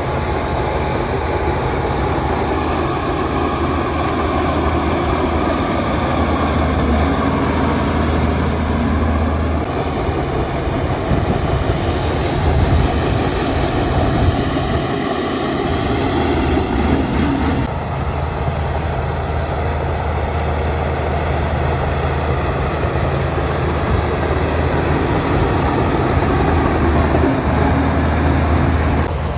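Heavy diesel engine of a Shantui bulldozer running steadily and loudly, its note changing a few times as the load comes and goes.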